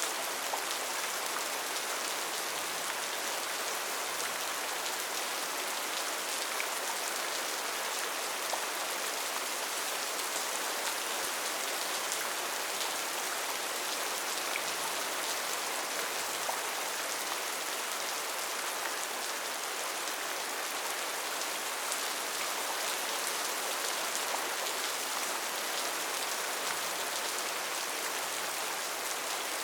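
Steady rain falling in a rainforest, an even hiss with many small drops pattering on leaves and surfaces.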